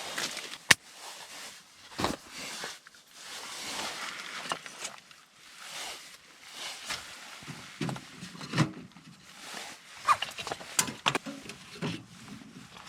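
Getting a fire going in a small wood stove: kindling and wood handled and fed in, heard as scattered sharp knocks and clicks with rustling, the sharpest click about a second in.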